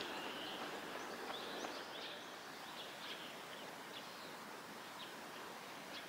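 Short, high bird chirps scattered over a steady outdoor background hiss. The chirps come several a second in the first half and thin out later.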